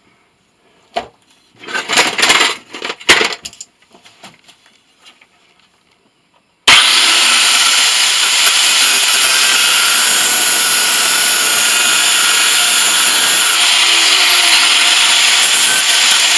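A few metal clanks as the motor is handled, then about seven seconds in an angle grinder starts suddenly and runs on steadily, loud and hissy, cutting into the motor's casing to open it up.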